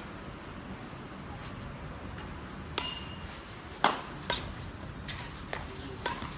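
Badminton rackets striking the shuttlecock during a rally: a run of sharp, echoing hits, the loudest about four seconds in, then lighter ones. A short high squeak comes just before three seconds.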